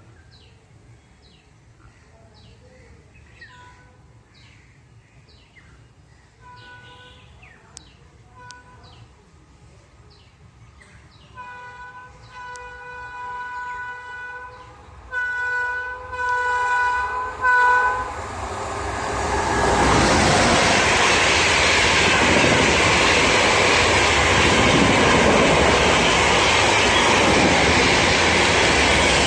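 Indian train's horn sounding in a series of blasts that grow louder as the train approaches. From about eighteen seconds in, the train passes at speed with a loud steady rush of wheels and coaches.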